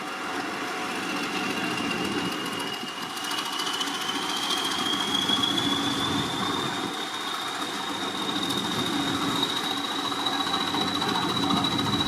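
English Electric Class 20 diesel locomotive running under power, its engine noise steady. A high whine rises slowly in pitch from about four seconds in and then holds.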